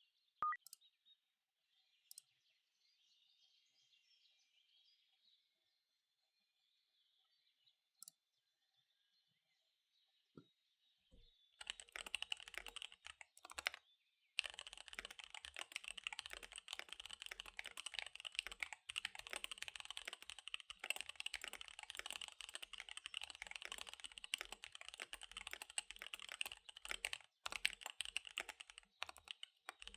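Faint birdsong, then from about a third of the way in, fast typing on a KBD75 V3 mechanical keyboard with tactile SP-Star Dark Magic Girl switches and DSA keycaps: rapid, dense key clicks with one short pause soon after they begin.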